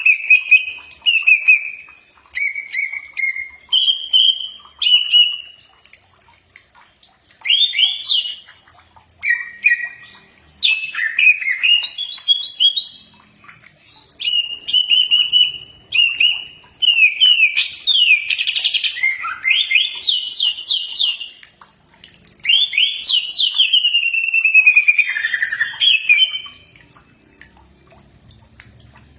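Cucak ijo (green leafbird) singing: a string of short whistled and chattering phrases, each about a second or two long with brief pauses between them, falling quiet for the last couple of seconds.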